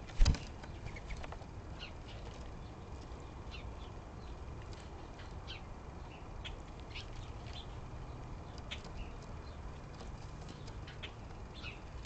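A short, loud burst of dove wing flaps about a quarter second in, then a steady scatter of short, high chirps from small songbirds.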